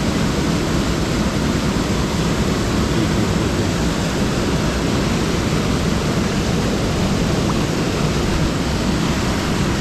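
Mountain stream water rushing steadily over rocks: a loud, even noise with no breaks.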